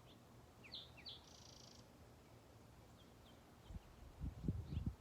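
Wild birds calling: a few short, quick downward chirps and a brief buzzy trill, then scattered faint chirps. Near the end a cluster of low, muffled thumps, the loudest sound here.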